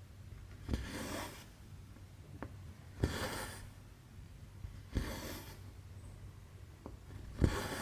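Thread being pulled through cross-stitch fabric: four rasping pulls about two seconds apart, each starting with a soft tap, with a couple of faint clicks in between.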